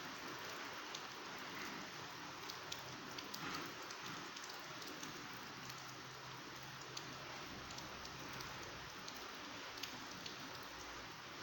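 Heavy rain pouring steadily, with a constant hiss and many separate drops ticking sharply on nearby surfaces.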